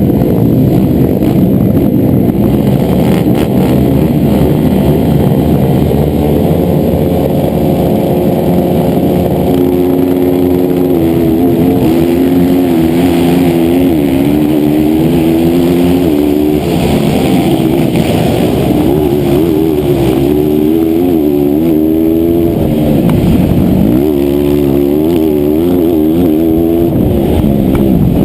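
160cc racing motorcycle engine running hard at high revs, its pitch repeatedly climbing and dropping as the throttle opens and closes and the gears change.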